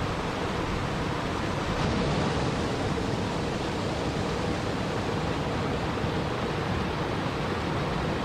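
Steady rushing water, an even unbroken noise with no single drops or splashes standing out.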